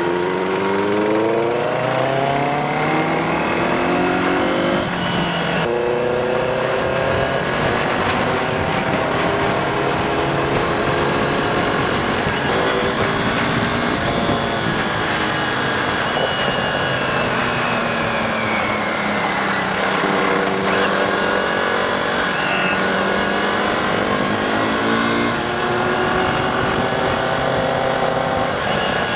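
Benelli TNT 600i inline-four motorcycle with an aftermarket IXIL exhaust, riding under power. Its revs climb and then drop back several times as it runs through the gears.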